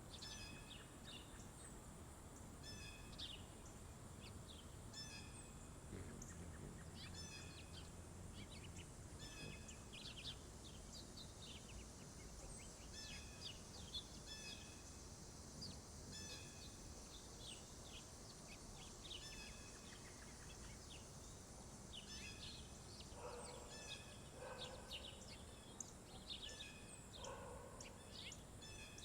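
Songbirds chirping and calling again and again at a feeder, over a steady high-pitched hiss. Toward the end, a lower, rougher call comes in three or four times.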